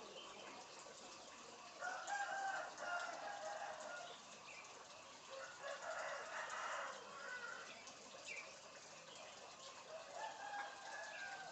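A bird giving rooster-like crowing calls: three drawn-out calls, the first about two seconds in, the second in the middle, and the last near the end.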